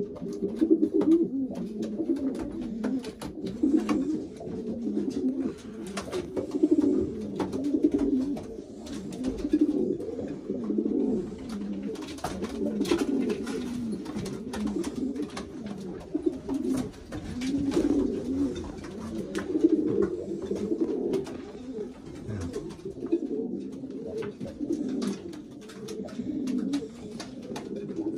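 Racing pigeons cooing in a loft, several birds at once in a continuous overlapping warble, as the birds are paired up for breeding. Short light clicks are scattered through it.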